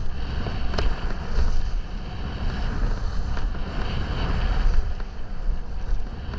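Wind rumbling on the microphone of a camera carried down a mogul run, with skis hissing and scraping through the snow and a sharp click about a second in.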